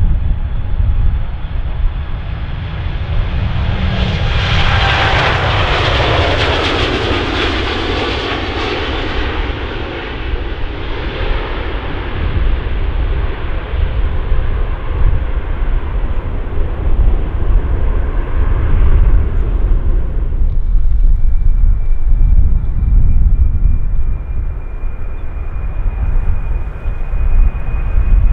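Jet airliner's engines passing by: the noise swells, peaks with a whine falling in pitch, then fades away. A low rumble runs under it, and a thin high whine comes in about twenty seconds in.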